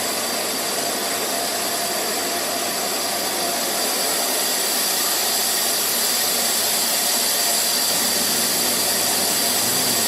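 CNC router spindle running steadily: a high whine over a constant rushing noise, growing slightly louder about halfway through.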